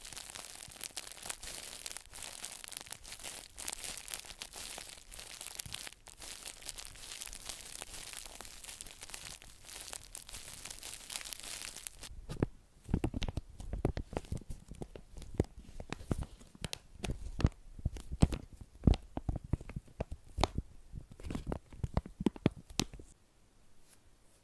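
Close-miked ASMR trigger sounds: a dense, fine crackling and crinkling for about twelve seconds, then a run of irregular soft taps and thumps until near the end.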